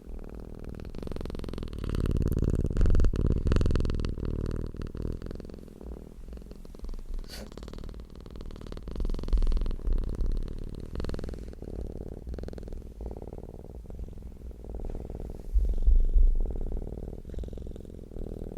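Domestic cat purring close up, a continuous low rumbling purr that swells louder about two to four seconds in and again near the end.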